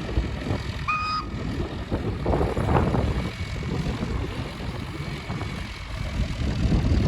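A heavy engine running with a rough, uneven low rumble. A brief high tone, like a short whistle, sounds about a second in.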